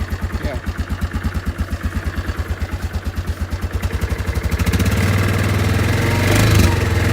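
2004 Yamaha Kodiak 450's single-cylinder four-stroke engine idling with an even thump, warming up after a cold start. About four and a half seconds in its speed rises and holds at a faster, louder steady run.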